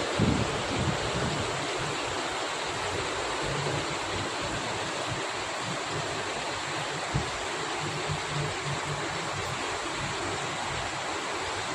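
Steady rain falling, an even hiss throughout. There are a few low bumps just after the start and a single sharp knock about seven seconds in.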